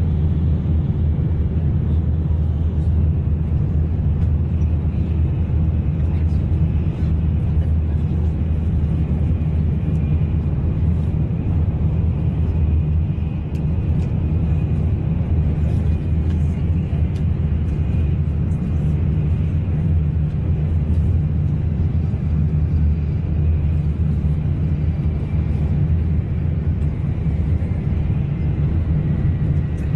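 Tokaido Shinkansen N700A train running, heard inside the passenger cabin as a steady low rumble. A faint high whine comes in about halfway.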